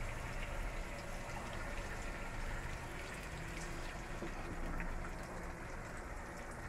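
Marinated mutton pieces frying in hot oil in a kadai: a steady sizzling hiss with faint scattered crackles.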